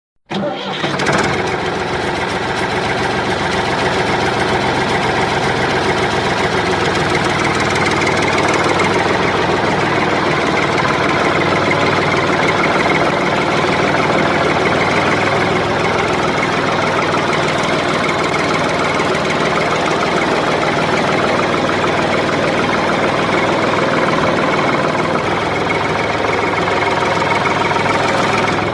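Tractor engine sound starting abruptly and then running steadily at idle.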